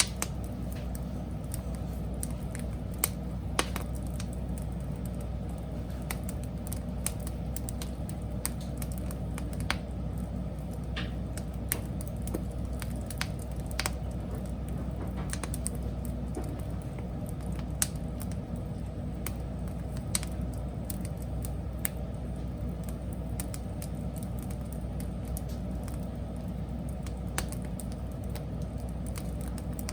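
Wood fire crackling: irregular sharp snaps and pops from the burning wood over a steady low rumble.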